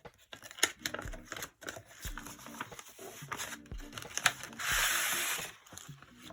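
Paper and plastic packaging being handled, crinkling and rustling with small clicks. Near the end there is a rasping rub of about a second, like the pack being pulled open or paper sliding out.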